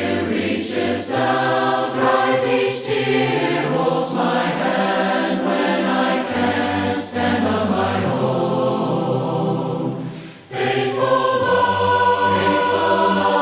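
Choir singing a hymn in several-part harmony, with a brief break about ten seconds in before a long held chord.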